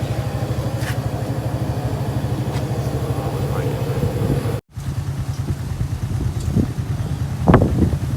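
A small engine idling steadily with a fast low pulse. The sound drops out for a moment about halfway through, and there is a brief louder sound near the end.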